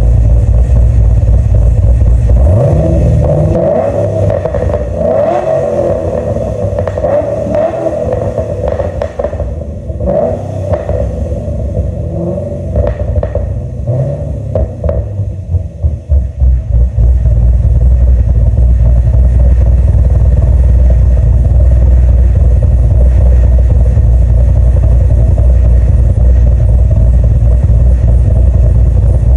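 Holden Commodore VF SS-V Redline's V8 running, heard from its exhaust. It idles steadily, is revved repeatedly with the pitch rising and falling from a couple of seconds in to about halfway, then settles back into a steady idle.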